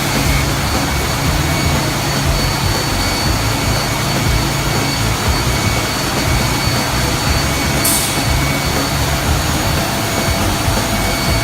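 Uinze 8T CNC linear shaping and sanding machine running on wood: a loud, steady machine noise with a constant high whine, and a short hiss about eight seconds in.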